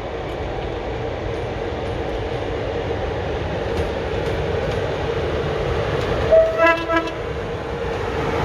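Train running with a steady rumble and hum that grows louder as it comes closer. About six seconds in, its horn sounds a few short toots, the first on a higher note than the rest.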